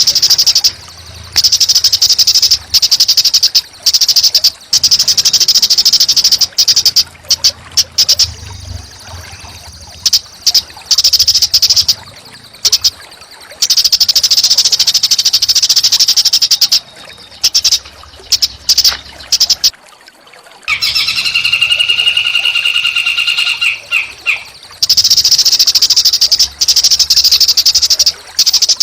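A small songbird's masteran recording: loud, rapid, high buzzy trills repeated in stretches of a few seconds with short breaks. Past the middle, a lower, steadier call runs for about three seconds.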